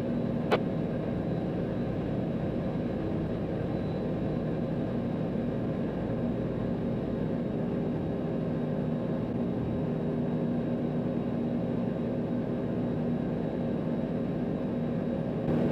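Cessna 182's piston engine and propeller droning steadily in cruise, heard from the cockpit. A single sharp click about half a second in.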